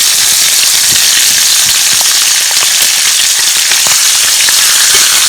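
Pike frying: a loud, steady sizzle scattered with small pops and crackles.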